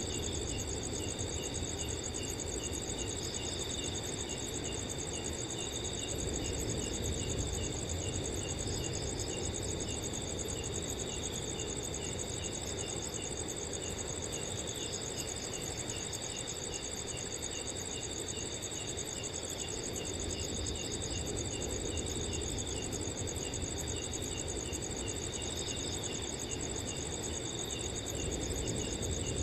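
Several crickets chirping together: steady high trills, one chirping in a regular pulse of about three a second, over a low rush of wind that swells a little now and then.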